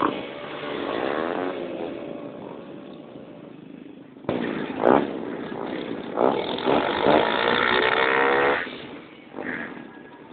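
Motorcycle engines revving, the pitch rising and falling. A louder run of revving cuts in suddenly about four seconds in and dies away near the end.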